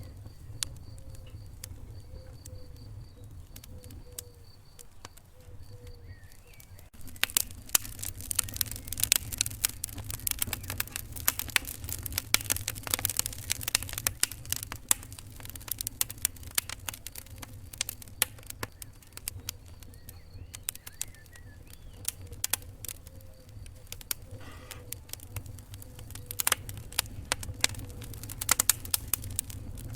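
Wood fire in a fireplace crackling and popping over a low steady rumble, the crackles growing much busier and louder about seven seconds in.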